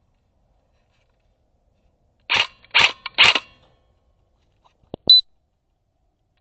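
Airsoft replica gun firing three short bursts about half a second apart, followed a couple of seconds later by a single sharp crack.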